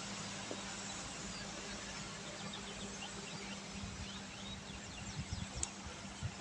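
Steady hiss of rain falling on a wet road, with a bird chirping in quick, short notes from about two seconds in.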